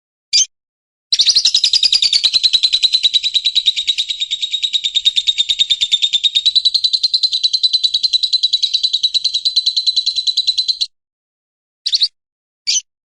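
White-rumped shama singing: a single short note, then a long fast trill of rapidly repeated high notes on a nearly steady pitch for about ten seconds, followed by a few separate short notes.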